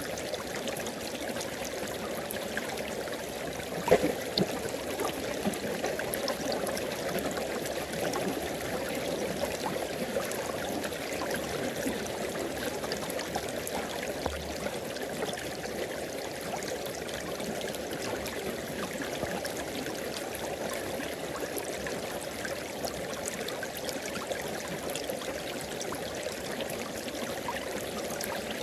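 River water flowing steadily over its bed, an even rushing and trickling, with one short louder sound about four seconds in.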